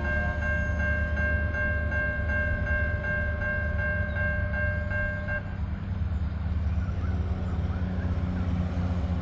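Diesel locomotives 2051 and 2054 and their train rumbling past at a road crossing. A steady high warning tone of several notes sounds over the rumble and stops about five and a half seconds in.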